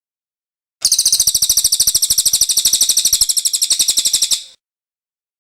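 Cililin songbird singing one fast, high trill of evenly repeated notes, about fourteen a second. It starts just under a second in and cuts off after about three and a half seconds.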